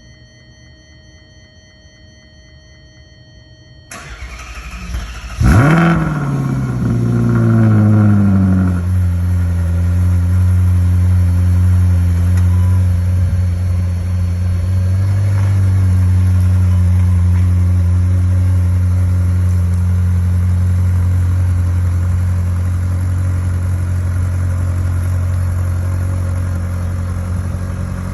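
Faint steady tones, then about four seconds in the 2013 Ferrari California's 4.3-litre V8 is cranked and catches with a sharp flare of revs. Over the next few seconds the revs sink and settle into a steady high cold-start idle.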